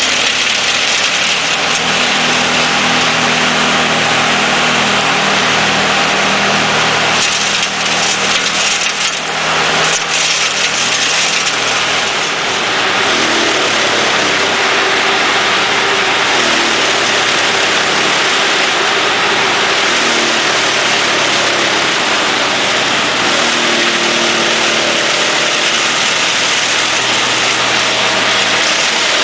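Forwarder-mounted Erjo drum wood chipper running loudly with its diesel engine, the engine's pitch shifting up and down under changing load over a steady dense rushing noise.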